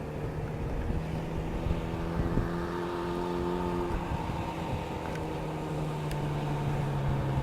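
Motorcycle engine idling steadily with a rumbling low end, the idle easing slightly lower about four seconds in.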